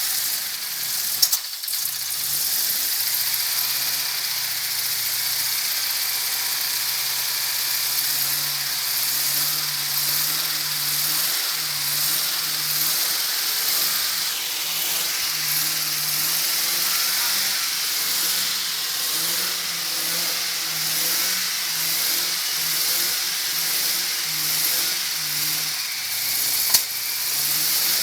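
V8 engine of a Ford Sierra running at idle just after being brought back to life, the idle speed rising and falling unevenly, with a strong steady hiss over it. A short sharp knock about a second in and another near the end.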